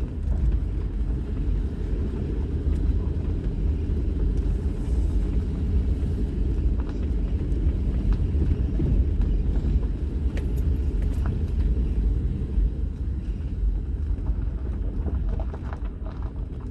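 A vehicle driving slowly over a rutted dirt road: a steady low rumble of engine and tyres, with a few faint small knocks and rattles.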